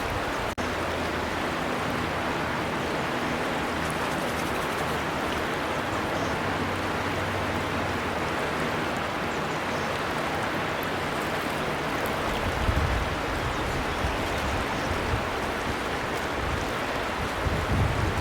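Steady rushing of a flowing river, an even wash of water noise. The sound cuts out for an instant about half a second in, and low rumbles come and go in the last third.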